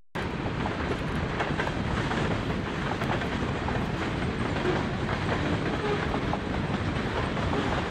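Freight train rolling past: a steady noise of wheels on rail with occasional faint clicks.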